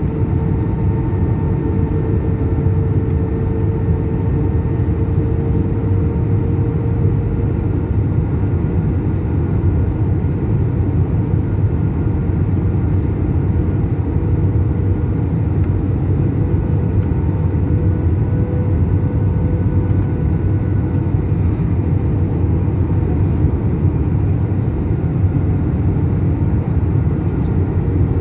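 Airbus A319 jet airliner in flight: a steady, loud low rumble of engines and airflow with faint steady whining tones over it, as heard inside the cabin.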